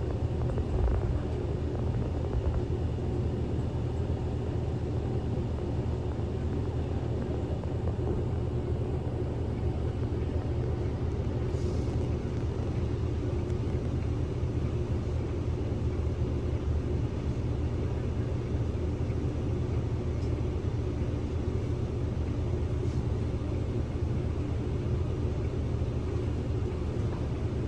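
Inside a Kyoto City bus: a steady low engine hum and road rumble, with one faint click about twelve seconds in.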